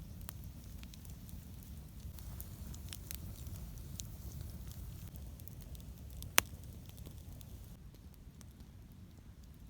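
Campfire of dry pine wood crackling, with small scattered pops and one sharp loud pop about six seconds in, over a low steady rumble.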